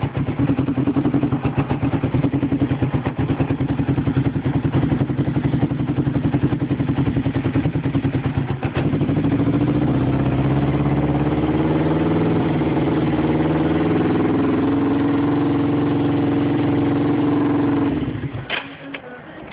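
2007 Kawasaki Ninja 500R's parallel-twin engine idling with an uneven, pulsing beat. About nine seconds in it settles into a smoother, steady idle that slowly rises in pitch. It shuts off near the end, followed by a couple of clicks.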